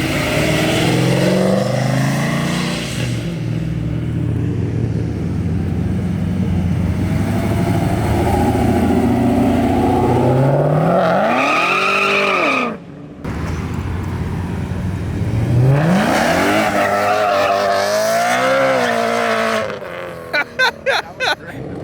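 Cars accelerating away one after another, each engine revving up with its pitch climbing. The sound breaks off abruptly about halfway through, and near the end it cuts in and out several times.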